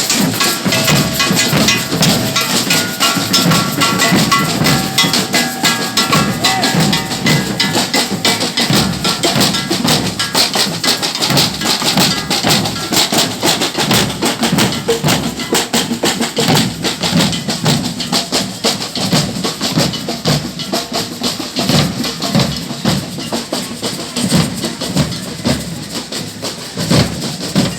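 Parade percussion band playing: fast, dense drumming with shaker and wood-block-like clicks. A melody sounds over the drums during the first several seconds.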